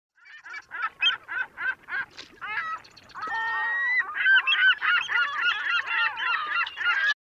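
Birds calling in a rapid series of short calls, thicker and louder from about four seconds in, then cutting off suddenly near the end.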